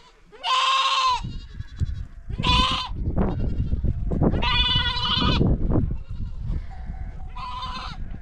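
Goats bleating: four separate calls, the longest about halfway through. Under them, from about a second in, a low, uneven rumbling noise.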